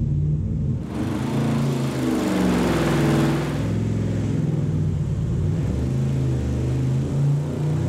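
6.4-litre Gen III HEMI V8 running under load on an engine dyno during a sweep pull, its pitch climbing as the revs rise.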